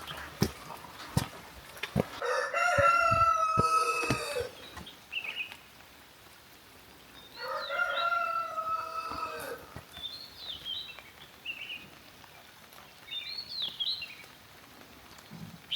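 A rooster crowing twice, each crow a long call of about two seconds, with small birds chirping briefly in between. A few sharp clicks come in the first few seconds.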